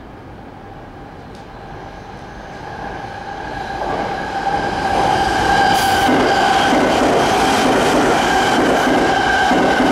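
Electric commuter train approaching and passing through the station at speed without stopping: it grows louder over about two seconds, then runs on loud and steady with wheels rumbling on the rails, rail-joint clicks and a steady whine.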